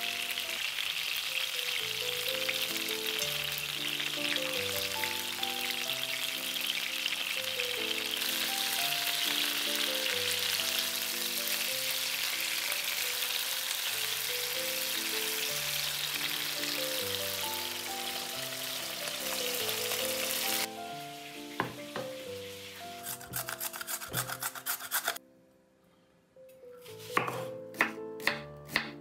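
Minced-meat and cabbage cutlets sizzling steadily as they fry in oil in a nonstick pan. About two-thirds of the way through the sizzling drops off, with a few scattered knocks. Near the end a knife chops an onion on a wooden cutting board in quick, sharp strikes.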